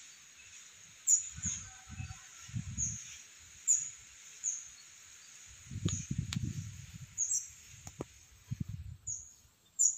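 A small bird giving short, very high, thin chirps over and over, roughly one every half second to second. Low rustling bumps come a couple of times, over a steady background hiss.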